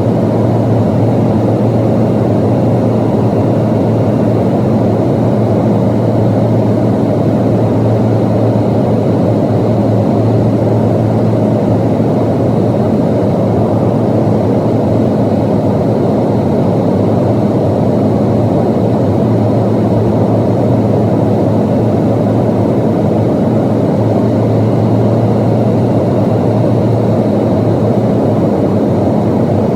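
Steady cabin drone inside a Boeing 737-800, the noise of its CFM56-7B jet engines and airflow, with a low hum that weakens a little midway and comes back stronger.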